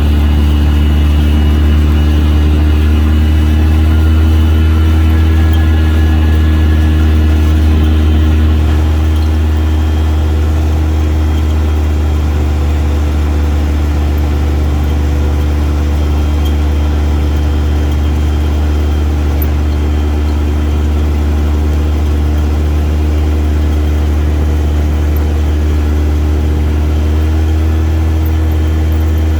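A vehicle engine running at a steady speed, heard close up as a constant low drone. It gets slightly quieter about eight seconds in.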